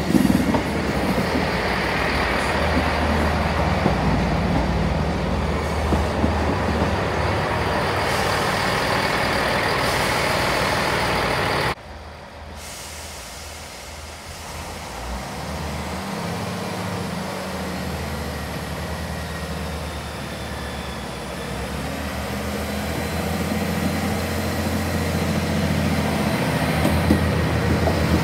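A passenger train running close past along the platform, a steady rumble that cuts off suddenly about twelve seconds in. Then a Class 158 diesel multiple unit runs its diesel engine, growing steadily louder as it draws near and passes.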